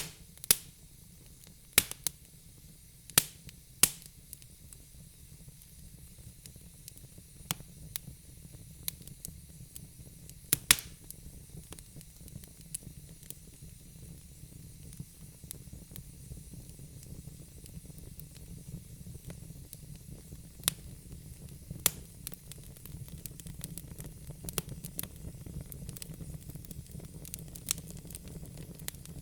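Wood fire burning in a fireplace, crackling: sharp single pops and snaps a few seconds apart over a steady low rumble and faint hiss of the burning logs.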